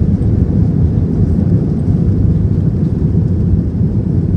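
Airbus A320 jet engines and airflow heard from inside the cabin during takeoff: a loud, steady low rumble.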